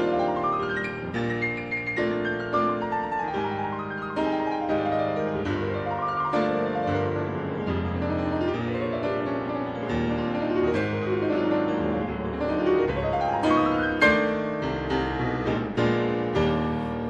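Background piano music: an instrumental passage of quick notes with sweeping runs up and down the keyboard.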